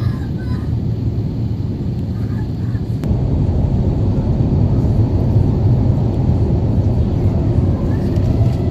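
Steady low rumble of the Airbus A350-900's jet engines, growing louder about three seconds in.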